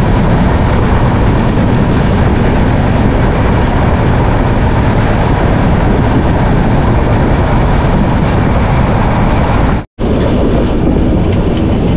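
Express train running at speed, heard from an open coach doorway: a steady, loud rush of wheel-on-rail and air noise. It drops out for a moment about ten seconds in, then carries on the same.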